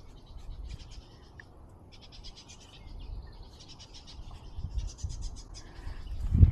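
Wind rumbling on the microphone, with repeated short runs of rapid, high-pitched ticking trills in the background and a louder low thump near the end.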